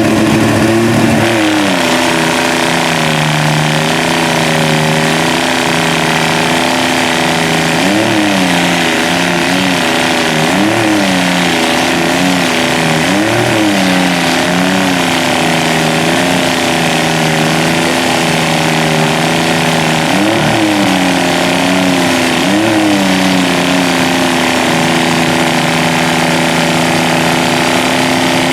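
Truck engine running hard at a steady high speed, its pitch briefly rising and falling again and again through the middle of the stretch as the throttle is worked.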